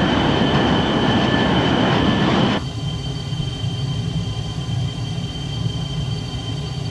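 Loud jet engine roar with a thin high whistle that cuts off sharply about two and a half seconds in, leaving a lower, steady rumble.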